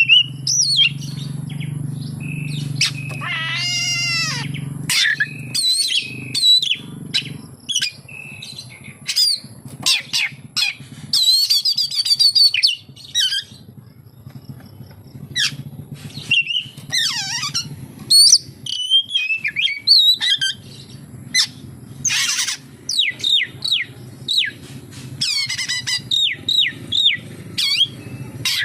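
Oriental magpie-robin singing a long, varied song of clear whistles, fast trills, sliding notes and sharp chirps, with mimicked phrases of other birds. A low steady hum runs beneath, strongest for the first few seconds.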